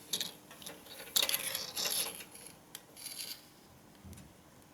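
Small hard clicks and light clinks of a car's brake light bulb and its plastic holder being handled and checked, in several short bunches.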